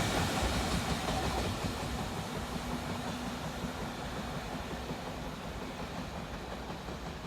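Freight train rolling away on the track, its wheel and rail noise fading steadily into a low rumble with a faint steady hum.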